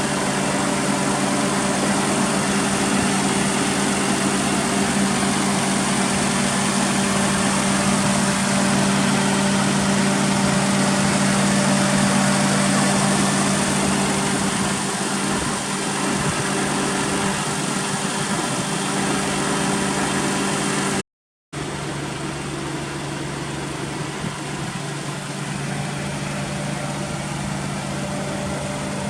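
Daihatsu Esse's small three-cylinder engine idling steadily through an aftermarket HKS muffler, with a brief half-second break about three-quarters of the way through.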